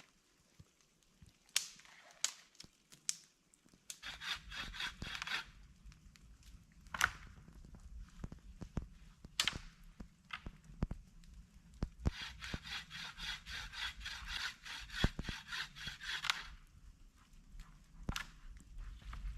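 Rapid, rhythmic rasping strokes on wood, like a hand saw cutting, in two bouts: a short one about four seconds in and a longer one of several seconds after the middle. Scattered sharp knocks and clicks fall between them.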